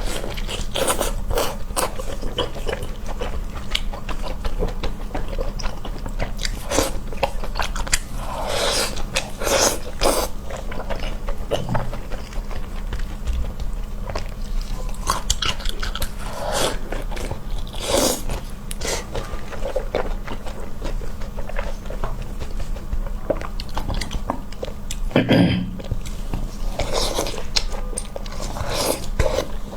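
Close-up eating: a person biting and chewing food, with many short, sharp crunches and crackles over a steady low hum.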